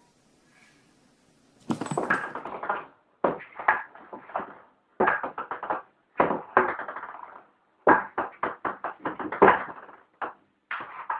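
Rapid knocking, in bursts of about a second with short pauses between, starting a little under two seconds in.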